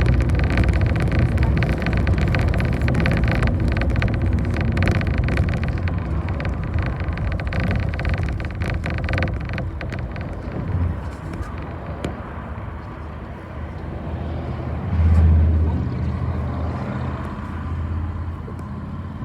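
City bus engine running, heard from inside the cabin, with rattling that dies down about halfway through. Near the end the engine drone swells briefly.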